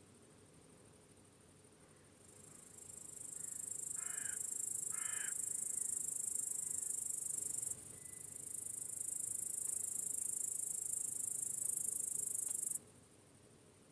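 Crickets chirping in a high-pitched, pulsing chorus that fades in about two seconds in, breaks off for a moment near eight seconds and stops abruptly near the end. Two short bird calls come one second apart, about four seconds in.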